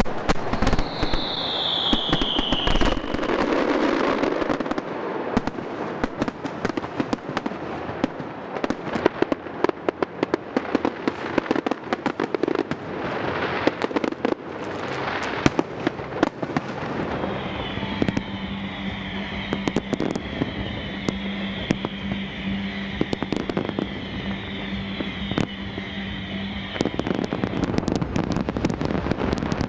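Fireworks display: a dense run of bangs and crackling. A falling whistle comes about a second in, and a steady whistling tone runs for several seconds in the second half.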